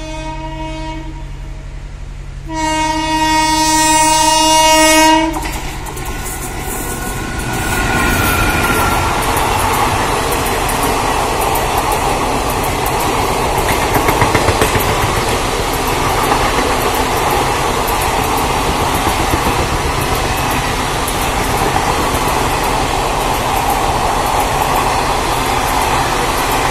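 Kalka Mail express train passing at speed. The locomotive's horn ends a blast about a second in, then gives a second, louder steady blast of about three seconds. From about six seconds in comes the loud, steady rush of the coaches going by, with the wheels clattering over the rail joints.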